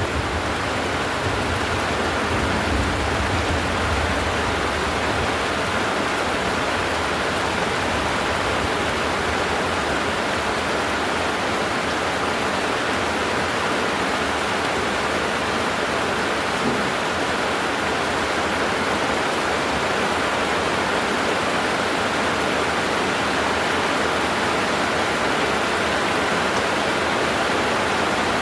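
Heavy rain pouring steadily, with a low rumble in the first few seconds.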